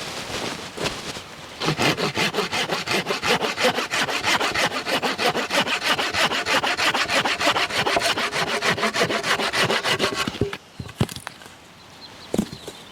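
A hand saw cutting through wood in quick, even strokes, several a second. It stops abruptly about ten seconds in, followed by a few separate knocks.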